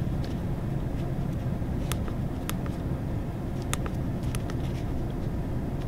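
2002 Chevy Avalanche's 5.3-litre Vortec V8 idling steadily, with a few faint clicks over it.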